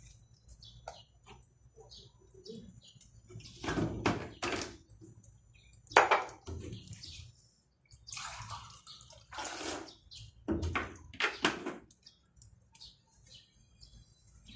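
Drinking water sloshing and pouring in several short bursts, the loudest about six seconds in.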